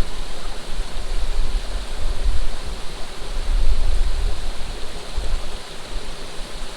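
Running water rushing steadily, with wind buffeting the microphone as a low, gusting rumble.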